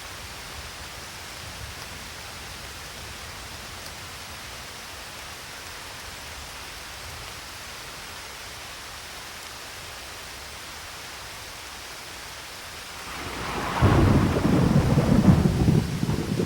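Steady rain falling, then about thirteen seconds in a loud clap of thunder breaks in and rumbles on.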